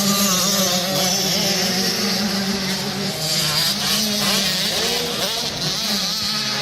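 Several motocross dirt bike engines racing around the track, their pitch rising and falling as riders open and close the throttle, over a steady drone of more bikes further off.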